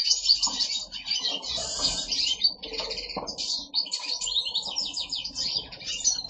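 Several caged finches singing at once: European goldfinches with siskins, a canary and chaffinches. Their fast twittering songs and trills overlap without a pause.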